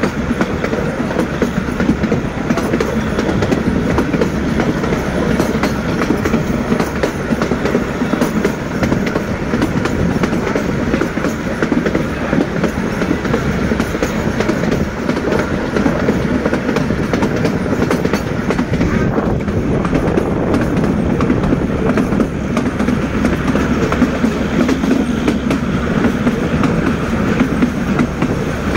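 Narrow-gauge passenger train running, heard from inside a coach: a steady rumble and rattle of the carriages, with the wheels clicking over the rails throughout.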